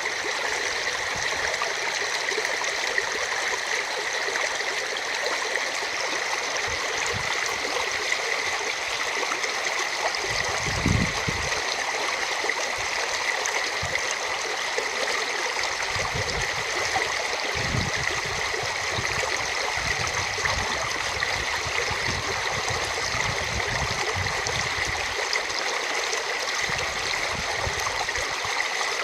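A river in spate rushing steadily, swollen and muddy after heavy rain. Low rumbling bumps come and go over it, the loudest about eleven seconds in.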